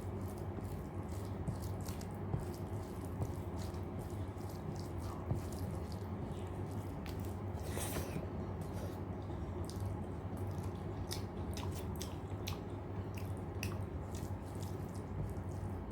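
Close-miked eating of rice and dal: wet chewing and mouth smacks, with many short sharp clicks and a couple of longer wet smacking sounds, over a steady low hum.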